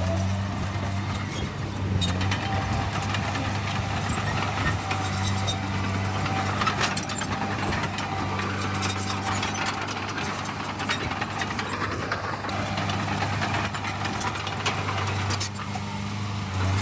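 Heavy diesel engine of an earthmoving machine running steadily, with scattered metallic clanks and rattles over the engine note.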